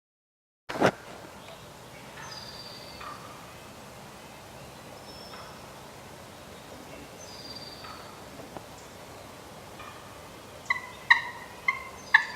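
Wild turkey calling: a quick series of loud, sharp calls near the end, after a stretch of faint woodland background with a few high songbird whistles. A single click comes just after the opening second of silence.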